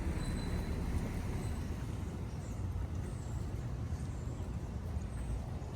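Steady urban street ambience: a low, constant rumble of traffic under an even noise haze, with a few faint high chirps.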